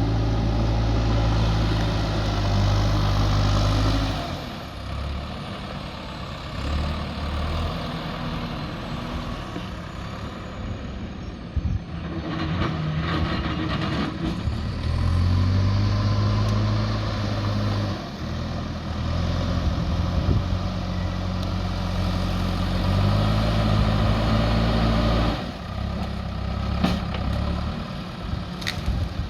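JCB 3DX backhoe loader's diesel engine running, revving up for stretches of several seconds as it works and dropping back to a lower, rougher run in between. A few sharp clicks come near the end.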